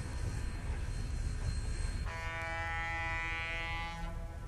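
A train runs with a heavy low rumble. About two seconds in, the locomotive sounds one long, chord-like warning blast that lasts about two seconds and then fades.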